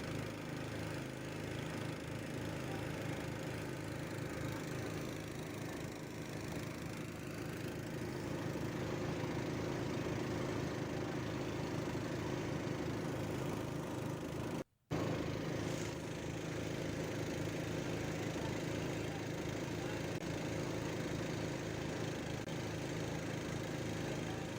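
Boat engine running steadily with an even, rapid low pulse, heard from on board. The sound drops out completely for a split second about fifteen seconds in.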